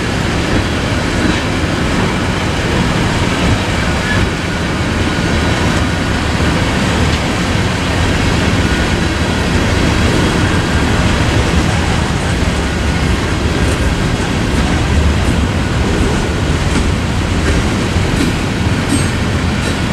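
Freight train cars (tank cars and a covered hopper) rolling steadily past on the rails: a continuous rumble of steel wheels on track.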